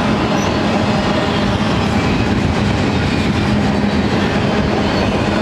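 Double-stack intermodal container train's well cars rolling past, steel wheels running steadily on the rails.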